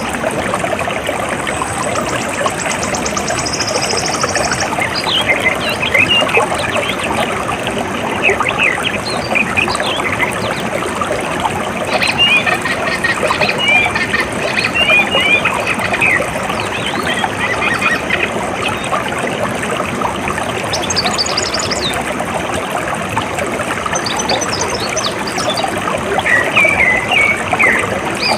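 Water flowing and trickling steadily, with birds chirping and twittering over it. A high, steady trill runs for the first few seconds and cuts off about five seconds in.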